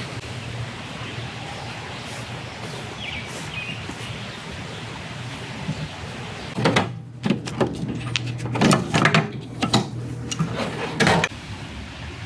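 Garden hose ends and couplings being handled and joined, with a run of sharp clacks and knocks about halfway through, over a steady low hum.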